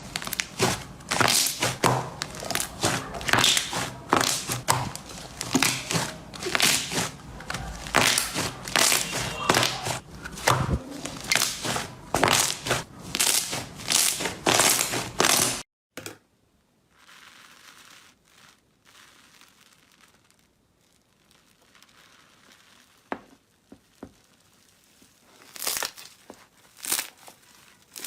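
Slime being squeezed and worked by hand, a dense run of crackling and popping that stops abruptly about halfway through. Then a quieter clip with only occasional faint clicks and a few louder pops near the end.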